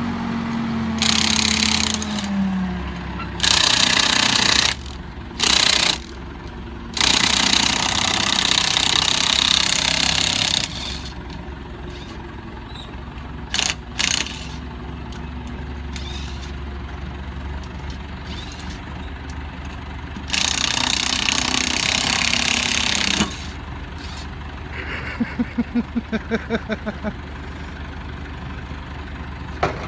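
Engine of a forked loader running steadily while it works at picking up a junk car, broken by several loud bursts of rushing noise lasting one to four seconds. Near the end comes a quick run of about eight short pulses.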